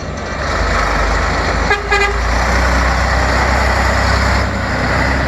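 A rally truck's engine running loud, with a short horn toot about two seconds in.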